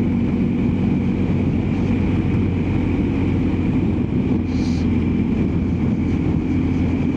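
BMW R1250GSA motorcycle's boxer-twin engine running at a steady cruising speed, mixed with wind and road noise as heard from on the bike.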